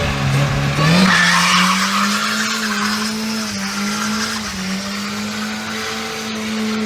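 2003 Mini Cooper S's supercharged 1.6-litre four-cylinder engine revving up about a second in as the tires squeal, then held at steady high revs.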